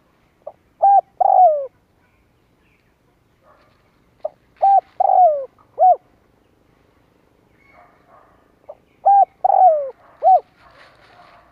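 Spotted dove cooing: three phrases of several short coos, each ending in a falling note, about four seconds apart. This is the male's calling song, used as a lure to rouse wild doves.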